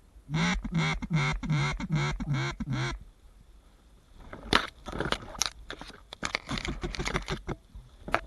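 A rapid series of about eight loud duck quacks, roughly three a second, each dropping in pitch, in the pattern of a mallard hen's call. From about four seconds in comes a run of irregular crackling and rustling clicks.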